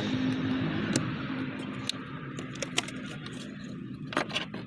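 Scattered light metallic clicks and clinks, a pair of louder ones about four seconds in, over a steady low mechanical hum.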